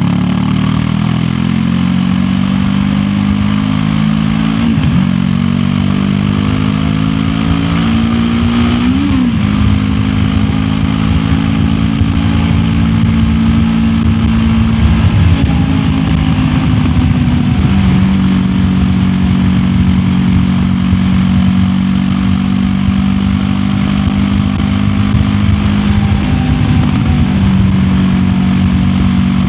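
QJ Motor SRT 700X parallel-twin motorcycle engine under way: the revs climb over the first couple of seconds, then hold fairly steady at cruising speed, with a few brief dips and blips in pitch along the way.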